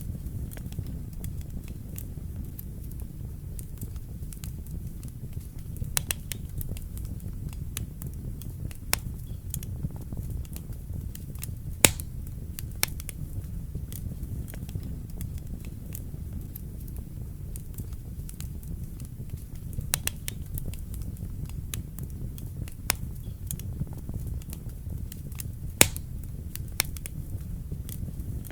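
Wood fire burning in a fireplace: a steady low rumble of the flames with scattered sharp crackles and pops, two louder pops about 12 and 26 seconds in.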